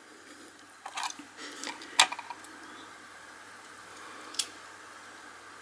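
A few light, sharp clicks and taps from handling a small die-cast toy car: a little cluster about a second in, a sharper click near two seconds, and one more a little past four seconds.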